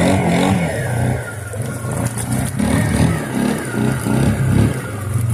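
Suzuki Eiger 400 ATV's single-cylinder four-stroke engine running under throttle, its note rising and falling as it pushes through deep flood water.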